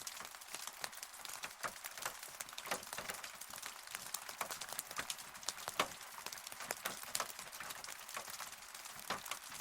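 Steady rain falling, with many close, separate drops ticking irregularly on a hard surface over a soft hiss of rain.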